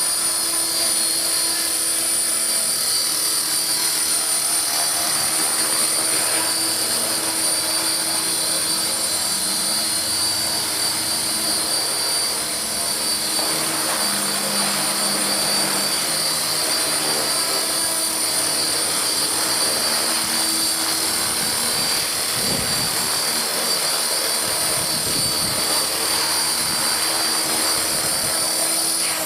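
T-Rex 450 electric RC helicopter in flight: a steady high-pitched whine from its motor and gears over the rush of the rotor blades. The pitch holds even, so the head speed stays constant.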